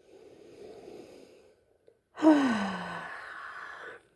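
A person breathing in softly, then a long voiced sigh falling in pitch, starting loud about two seconds in and trailing off breathily.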